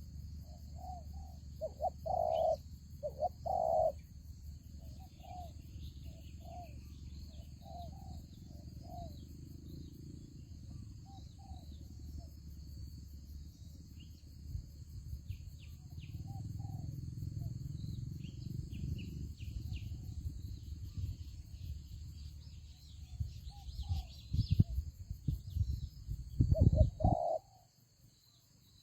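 Spotted doves cooing in short repeated phrases, with faint chirps of small birds and a low rumble on the microphone. Several loud low thumps come near the end.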